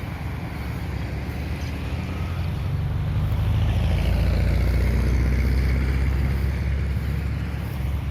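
A motor vehicle driving past: a low rumble that swells to its loudest around the middle and then fades.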